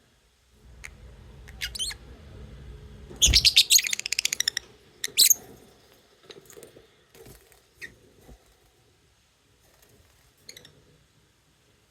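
Lovebirds chirping in sharp, high calls, with a loud run of rapid chattering about three seconds in, another loud call just after, then a few scattered shorter chirps.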